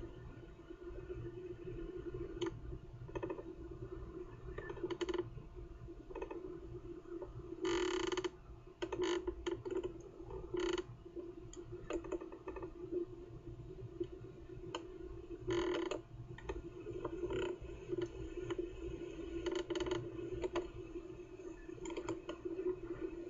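Irregular clicks and creaks over a steady low hum, with a few short, louder rasping bursts, from a kookaburra nest-box camera's microphone as the box shifts in the wind.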